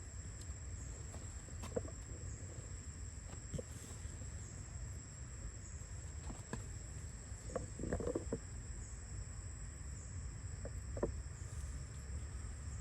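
A steady high insect trill, like crickets, over a low rumble, broken by a few short squeaky calls, with a brief flurry of them about eight seconds in.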